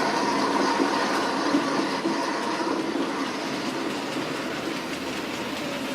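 Model railway goods train running: a Q1 class steam locomotive hauling a long rake of empty hopper wagons, a steady train running sound that slowly gets quieter.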